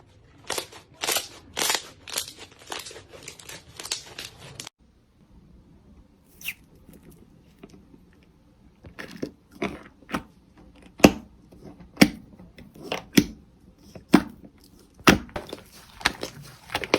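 Slime being worked by hand: a run of crackly squishes that stops abruptly, then after a quiet spell a steady series of sharp pops about once a second.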